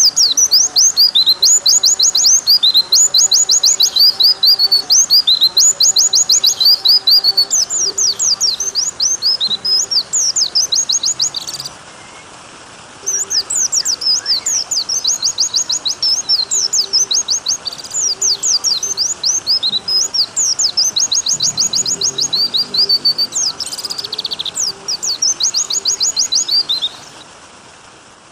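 White-eye (pleci) song: long, fast strings of high, thin chirps, broken once by a short pause about twelve seconds in and fading out near the end, over a faint steady background of running water.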